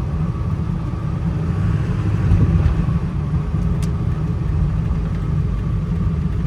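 A 1999 Ford F-250's 7.3-litre Powerstroke V8 turbodiesel running as the truck drives and accelerates, heard from inside the cab: a steady, deep rumble.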